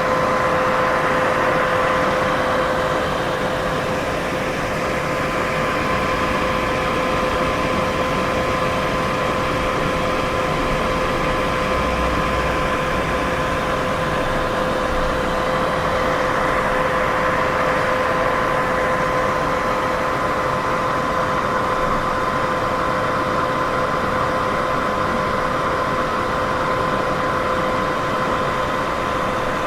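Steady, unchanging white-noise hiss for sleep and sound masking, with a faint steady hum tone running underneath.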